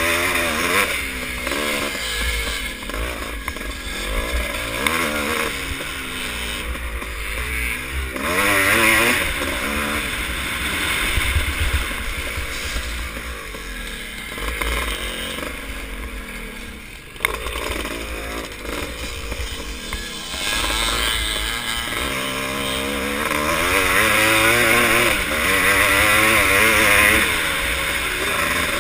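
Vintage motocross motorcycle engines racing, the revs rising and falling again and again as the bikes accelerate, shift and back off. There is a single sharp knock about two-thirds of the way through.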